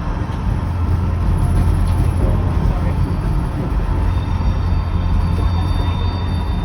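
Kuranda Scenic Railway train running along the narrow-gauge line: a loud, steady low rumble of the carriage on the rails. A faint high whine joins about two-thirds of the way through.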